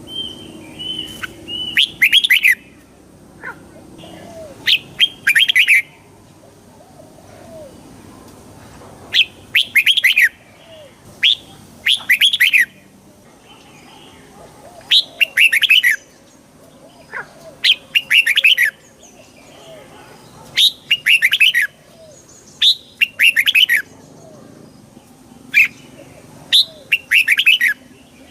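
Red-whiskered bulbul singing: short, bright, warbling phrases of a few quick notes, repeated every one to three seconds throughout.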